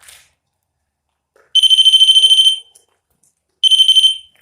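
Piezo alarm of an electronic ghost-hunting trigger device going off: a loud, high-pitched, rapidly pulsing electronic tone in two bursts, about a second long and then a shorter one near the end. The device is sounding because it has been triggered.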